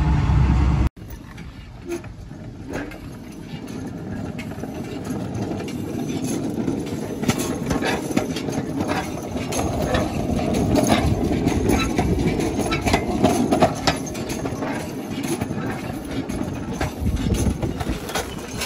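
Narrow-gauge train rolling on the track, wheels clicking over the rail joints, growing louder to a peak about two-thirds of the way through and then easing slightly. It starts after a steady low drone that cuts off abruptly about a second in.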